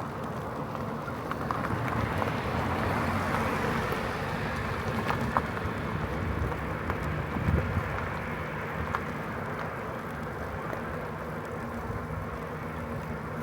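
A car overtaking from behind, its road noise swelling over the first few seconds and fading, over steady wind rush and rolling noise from the moving tricycle.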